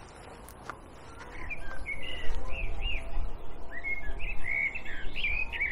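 A songbird singing a run of quick, looping chirps, starting about a second in, over a low rumble.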